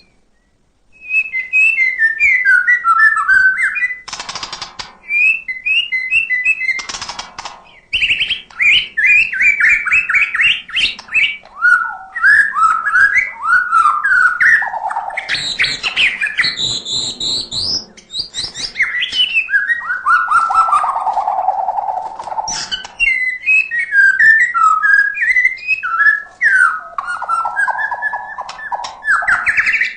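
White-rumped shama (murai batu) singing a long, varied song of rapid chirps, whistled downward slurs and trills. It starts after a brief pause near the beginning and goes on almost without a break.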